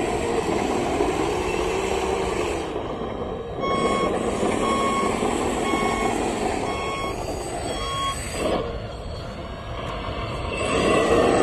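Truck reversing alarm beeping five times, about once a second, over a steady engine-like rumble and noise.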